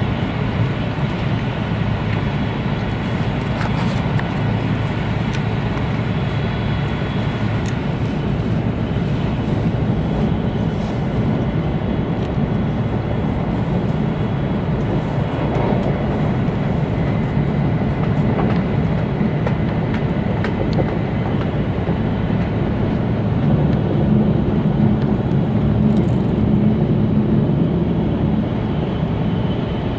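Cabin noise inside an E2 series Shinkansen passenger car running at speed: a steady, dense rumble and rush of wheels, track and air, with faint steady whines, swelling slightly a little after halfway.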